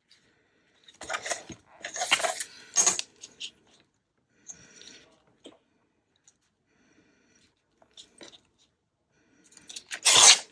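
Paper pieces and small craft items handled on a tabletop: intermittent rustling and light clicks in short spells, the loudest just before the end.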